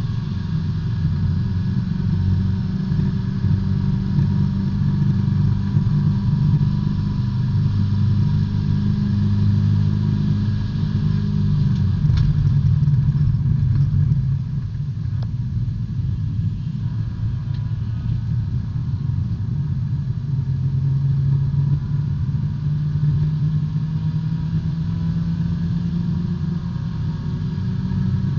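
B-Spec race car's small four-cylinder engine running hard under racing load, heard from inside the cabin. The engine note holds high, drops and eases about halfway through, then climbs steadily again toward the end.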